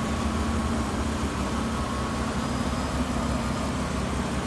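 2004 Hyundai Santa Fe 3.5L V6 engine idling steadily.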